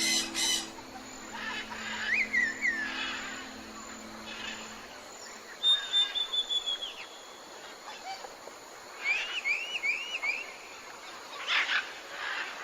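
Bird calls: a rising-and-falling chirp about two seconds in, a held whistled note about six seconds in, then a quick run of four rising chirps. Short harsh calls come at the start and again near the end, over soft background music in the first few seconds.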